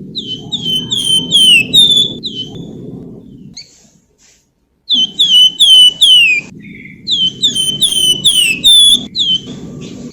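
A songbird of the kind sold in Indonesia as 'flamboyan' singing in its fluting style: quick runs of clear, down-slurred whistled notes in three phrases with short pauses between, over a low rumbling noise.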